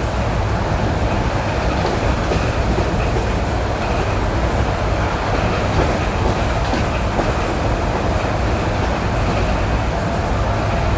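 ED9E electric multiple unit running on jointed rail: a steady rumble of wheels and running gear, with occasional clacks as the wheels pass over rail joints.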